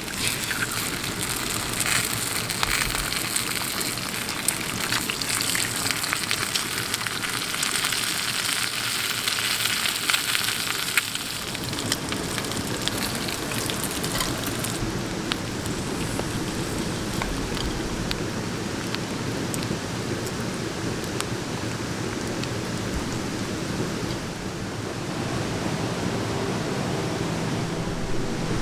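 Rain falling steadily, an even hiss scattered with small drop clicks; the high hiss thins out about halfway through.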